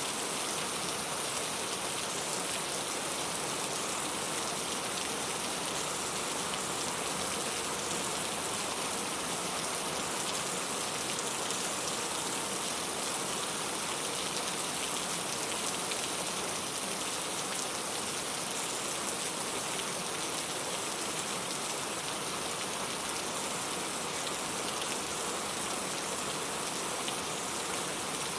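Steady rain falling, an even hiss of drops on a surface, strongest in the treble.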